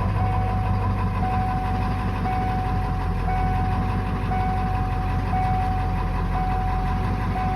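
Ford 7.3 Power Stroke turbo-diesel V8 idling steadily shortly after a cold start. A thin high tone, like a beep, repeats about once a second over the engine.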